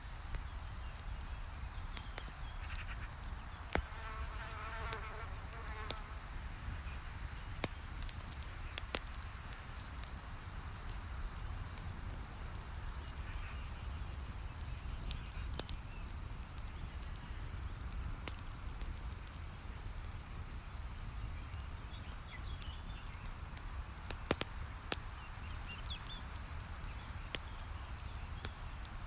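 Campfire crackling, with sharp pops scattered throughout over a steady low rumble. An insect buzzes past for about two seconds, starting about four seconds in.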